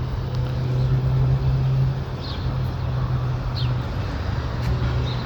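City street traffic with a steady low vehicle engine hum, plus a few short high chirps.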